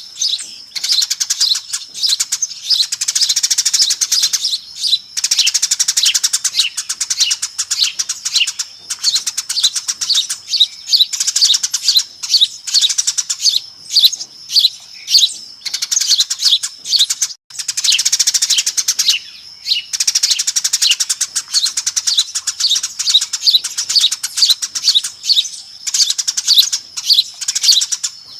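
Flock of Eurasian tree sparrows chirping busily in rapid, overlapping chirps, with brief lulls. It is a sparrow lure call recording, played to draw the birds in.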